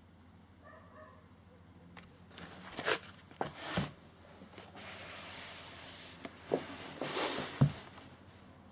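Fireworks being handled: rubbing and rustling of their packaging, with several sharp knocks and two dull thumps, the last one the loudest.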